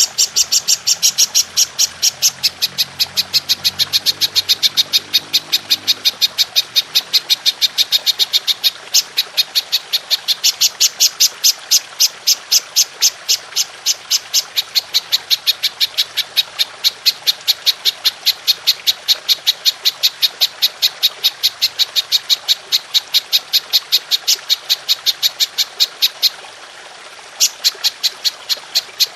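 Belalang emas (golden grasshopper) calling in a long, rapid run of sharp, high chirps, about four or five a second, breaking briefly about 9 s in and for about a second near the end, over a steady trickle of water.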